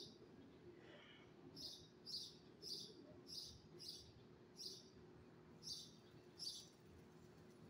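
A small bird chirping: a string of short, high chirps about every half second to a second, starting about one and a half seconds in, over a faint low background hum.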